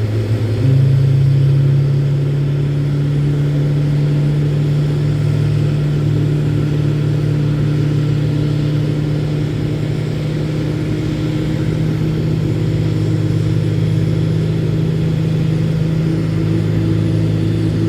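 A vehicle engine steps up in speed about a second in, then runs steadily at the higher speed, its pitch creeping slightly upward.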